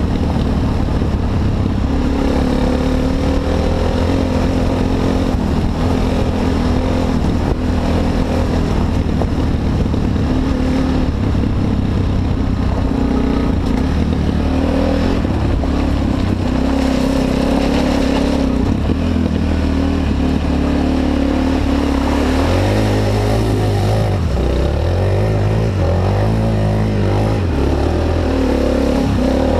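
Honda XR250 Tornado's single-cylinder four-stroke engine running under way, its pitch rising and falling as the throttle opens and closes.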